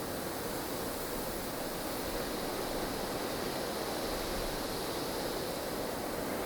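Blustery snowstorm wind ambience: a steady, dense rushing of strong wind that swells a little and eases back.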